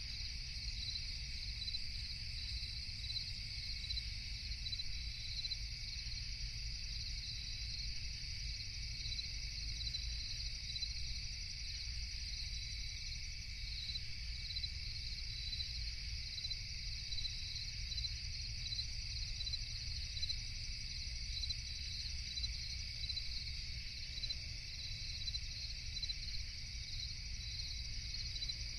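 Night chorus of crickets chirping steadily, a high continuous trill with an even, regular pulse, over a low steady rumble.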